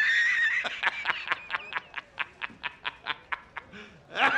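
High-pitched, squeaky laughing sound effect: a held squeal, then a run of rapid chopped 'heh-heh' pulses, about four or five a second, that fade out.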